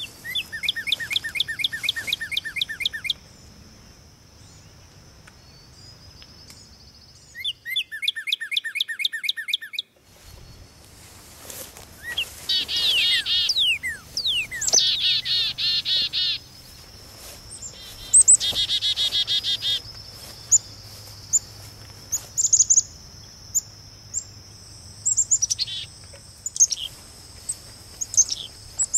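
Wild birds singing: about five trilled phrases of rapidly repeated notes, each lasting two to three seconds, then scattered short chirps near the end, over a steady high-pitched hum.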